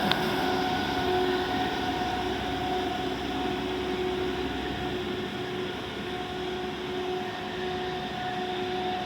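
Street-cleaning water truck running, a steady mechanical hum over the hiss of its water spray, slowly fading as it moves away. There is one sharp click right at the start.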